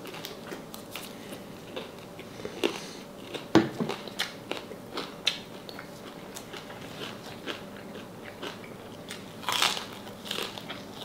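Close-up chewing and biting on crispy deep-fried salted pork knuckle, with irregular crunches of the fried skin and a louder run of crunching near the end.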